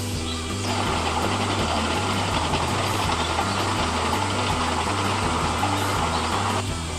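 Remote-control construction models running: steady motor and gear noise, with a low tone pulsing at a regular pace. The noise picks up about half a second in and eases near the end.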